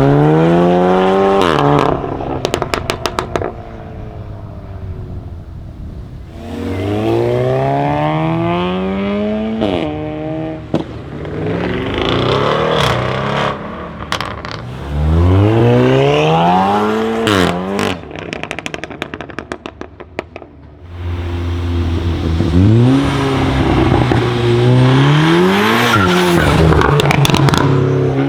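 Tuned 500 hp Volkswagen Golf 7 R's turbocharged 2.0-litre four-cylinder revving up hard three times, each pull ending abruptly in a rattle of exhaust crackles and pops. Near the end it settles to a steady idle with two short throttle blips and more crackling.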